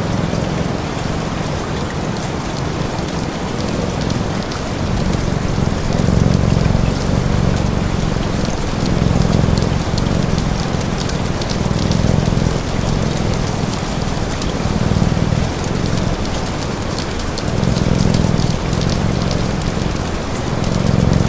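Steady rain hiss mixed with a cat's low purr that swells and fades every two to three seconds, and faint fire crackles.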